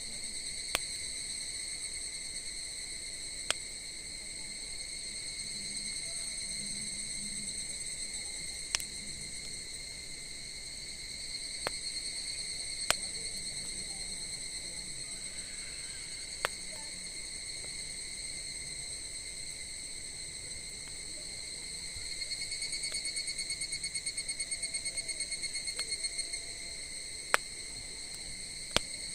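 Crickets singing in a continuous high trill that turns into a fast pulsing for a few seconds about three-quarters of the way through. About eight sharp, irregular pops from the burning wood fire.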